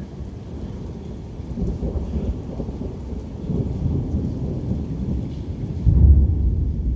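Thunder rumbling, swelling from about a second and a half in and loudest near the end, with rain falling.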